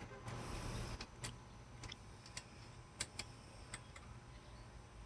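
Faint, irregular clicks and light taps, about a dozen, from bolts and a socket being turned by hand as alternator mounting bolts are snugged hand tight.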